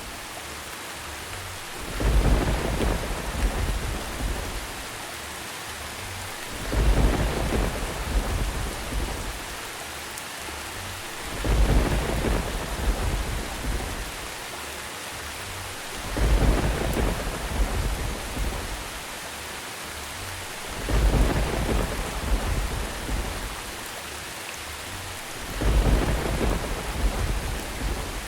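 Steady rain hiss with a deep rumble of thunder swelling up six times at even intervals, about every five seconds.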